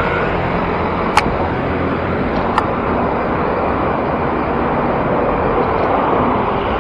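Steady city road traffic noise heard from a moving bicycle, with two brief sharp clicks, one about a second in and another about two and a half seconds in.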